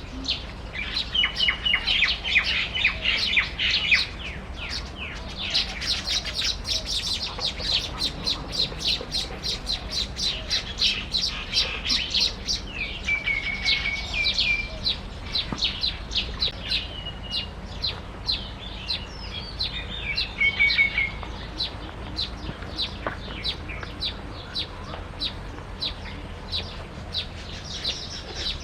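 Small birds chirping: a dense, rapid run of short high chirps, with a couple of brief whistled notes partway through and again later on.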